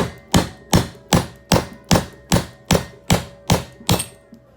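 A hammer striking metal in steady, even blows, eleven strikes about two and a half a second, each ringing briefly.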